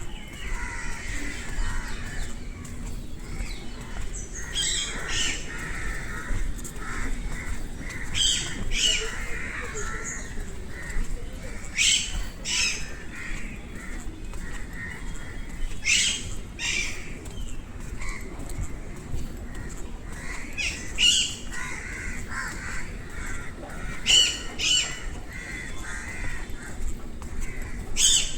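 A crow cawing repeatedly, harsh calls in pairs about every four seconds, over softer chattering of other birds.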